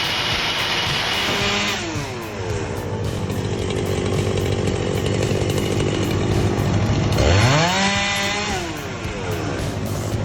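Chainsaw engine dropping from high revs to idle about two seconds in, idling, then revved up sharply about seven seconds in and let back down near the end.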